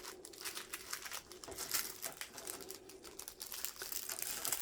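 Plastic packaging crinkling and rustling in irregular little crackles as small items are handled and sorted, with a faint steady hum underneath.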